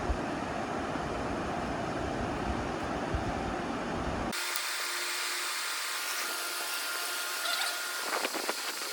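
A rough, rumbling noise that cuts off abruptly about four seconds in, replaced by the steady whine of a running power tool, with some clicking and rattling near the end.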